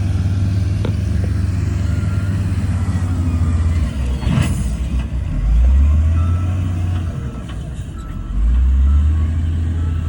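Heavy diesel earthmoving machinery running, the engine rumble surging louder twice in the second half. A brief hiss comes about four and a half seconds in.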